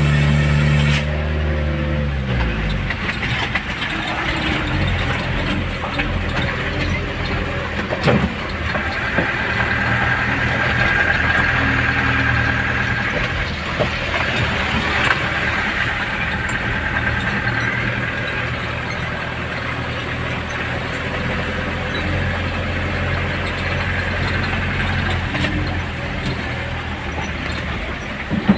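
Vehicle engine running. Its note drops about two seconds in, then holds low and fairly steady, with a few scattered clicks and knocks.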